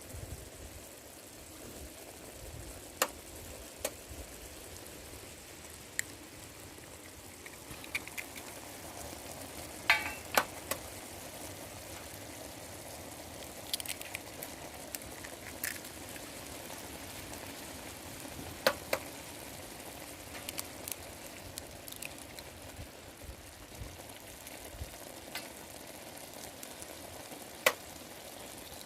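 Food frying in a pan: a steady sizzle with scattered sharp taps and clicks, like a utensil knocking against the pan.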